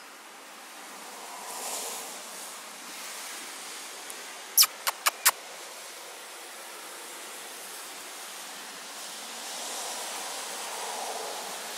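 Steady hiss of falling rain, swelling twice into a louder whoosh, about 2 seconds in and again near the end. Four sharp clicks in quick succession about 5 seconds in.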